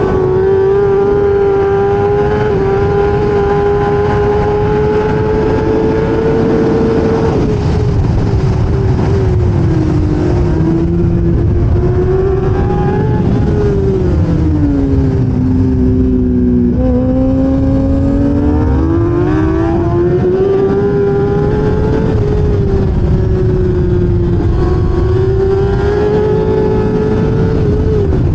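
1000cc racing motorcycle engine at high revs, heard onboard at racing pace. Its pitch holds high, eases down to its lowest about halfway through, then climbs back as the bike drives out. A heavy low rush runs underneath the engine.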